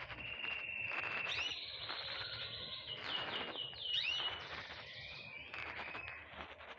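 Several small songbirds chirping and singing at once: overlapping whistled notes, quick trills and a few rising sweeps.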